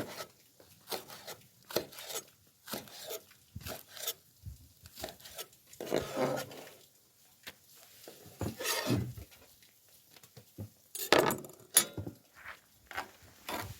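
Irregular clinks, taps and scrapes of a cooking utensil against a cast-iron pot lid used as a griddle, as the food on it is stirred and moved around.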